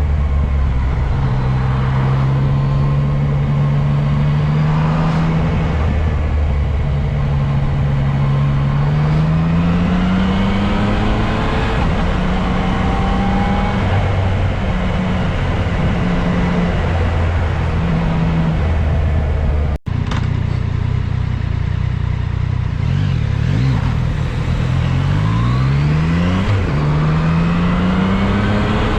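Yamaha MT-09 SP's three-cylinder engine under way: it holds steady, then its pitch climbs gradually several times as it accelerates. Near the end come a quick run of short rising revs, as if pulling through the gears. The sound cuts out for an instant about two-thirds through.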